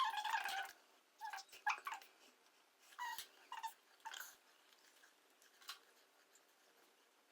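A dog whimpering in short, high calls that come in several clusters over the first six seconds, then fall away.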